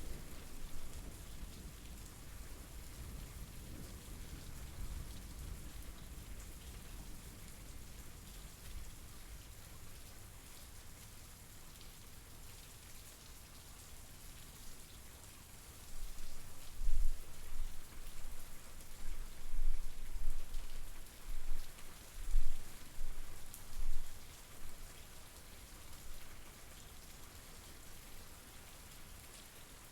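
Steady rain falling, an even hiss of drops on surfaces. From about 16 to 24 seconds in, a run of loud, low rumbles rises over it.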